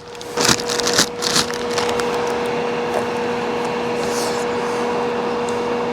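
Steady whir of a portable air conditioner running, its fan blowing with a low electric hum under it. A few clatters and rustles of things being handled in the first couple of seconds.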